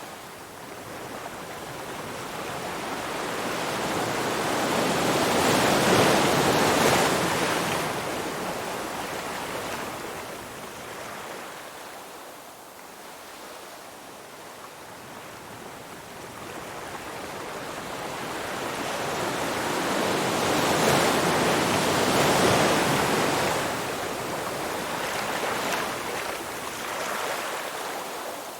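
Ocean waves surging and washing on the shore, two slow swells that build, break and ease off.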